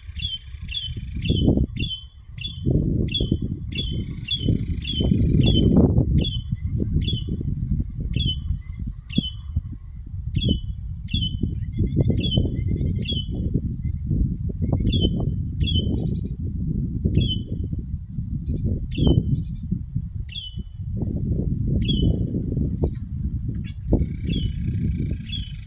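A bird repeating a short, falling chirp over and over, about two a second at first and more spaced out later, over a heavy low rumble.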